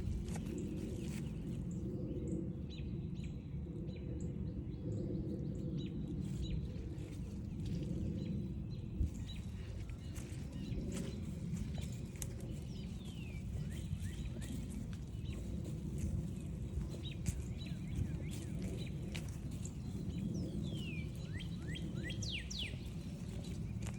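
Footsteps along a forest trail over a steady low rumble, with wild birds calling: a few short, downward-sliding whistled notes about halfway through and a quick cluster of them near the end.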